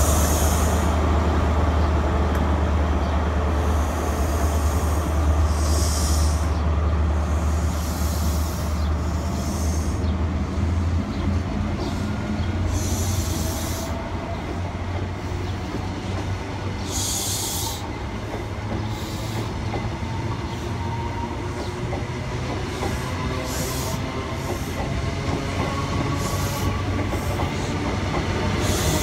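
Diesel train running on the rails: a deep steady engine drone for the first third, then wheel and rail noise with whining tones that rise in pitch through the second half as it gathers speed, and short hissing bursts every few seconds.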